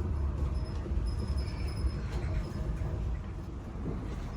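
Passenger train carriage interior while moving: a steady low rumble of the running train, with a faint high tone that comes and goes.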